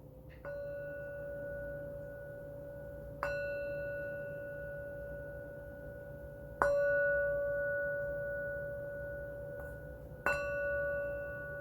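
Singing bowl struck four times, about three to four seconds apart, each strike ringing on in a long, steady tone that slowly fades.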